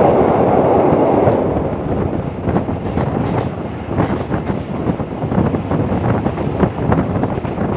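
Passenger train carriage rolling along the rails, heard from an open window: a louder, denser rumble for the first second or so while it crosses a steel girder bridge, then a steady rolling rumble with many short rail clicks and wind buffeting the microphone.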